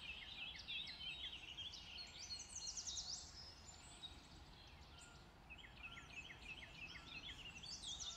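Faint birdsong outdoors: quick runs of short, high chirps, several a second, in two bouts with a pause of about two seconds near the middle.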